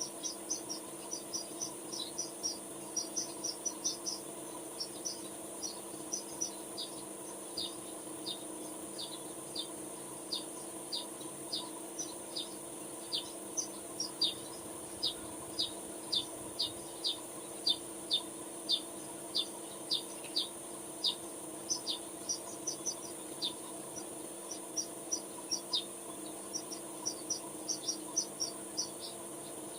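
Repeated short, high chirps from a small animal, about two a second and coming faster near the start and end, over a steady hum.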